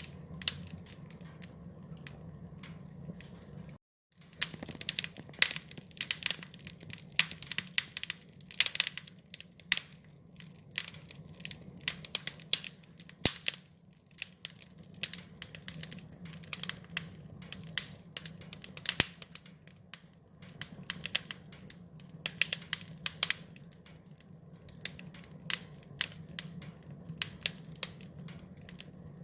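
Wood fire crackling: irregular sharp pops and snaps over a steady low rumble. The sound cuts out completely for a moment about four seconds in.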